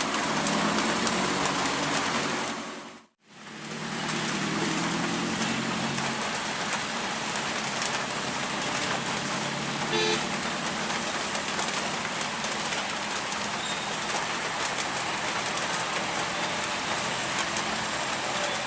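Steady heavy rain, with a truck engine running in the first few seconds. The sound drops out briefly about three seconds in, and a short horn toot comes about ten seconds in.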